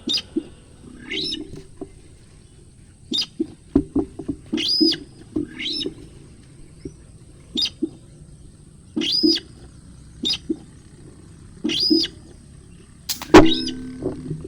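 A bird repeats one short call that rises and falls, about once every one to one and a half seconds. Near the end there is one sharp, loud click.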